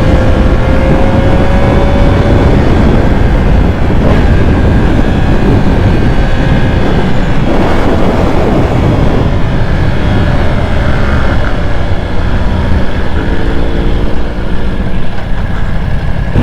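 Motorcycle being ridden at speed: heavy wind rush on the microphone with the engine running underneath. The level dips briefly a few times in the second half.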